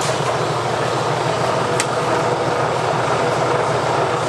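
A steady, loud mechanical noise with a low hum, and a single sharp click about two seconds in.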